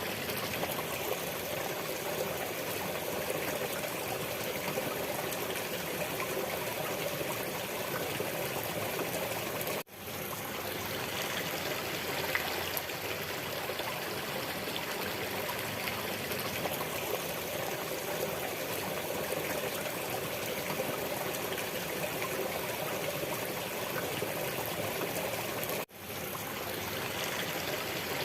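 Steady running water flowing continuously. It dips out for an instant twice, about ten seconds in and near the end.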